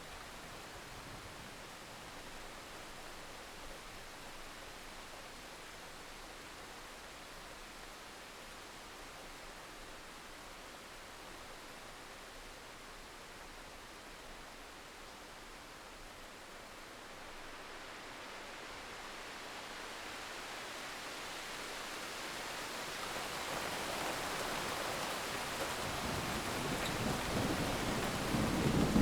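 Heavy rain falling steadily. In the second half a low rumble of thunder builds, growing louder toward the end.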